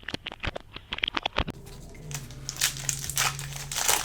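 Packaging of a blaster box of trading cards being opened: sharp clicks and crackles of the wrapping for about a second and a half, then foil card-pack wrappers crinkling and tearing. A low steady hum comes in about two seconds in.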